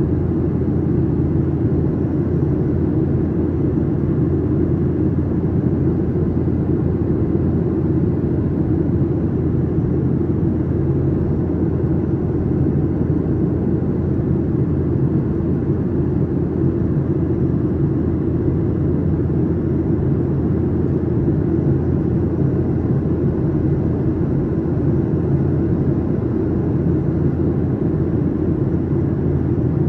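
Steady cabin noise of a Boeing 737-900ER in flight: an even, low rumble of its CFM56 turbofan engines and the airflow over the fuselage, unchanging throughout.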